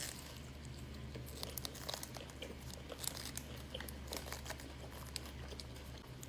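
A person chewing a burger, with a paper wrapper crinkling, as scattered small clicks and rustles. A low steady hum runs underneath and stops near the end.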